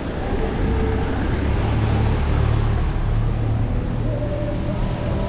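Street traffic on a wet road: a vehicle passing with a low rumble and tyre hiss, loudest about two seconds in, then easing off.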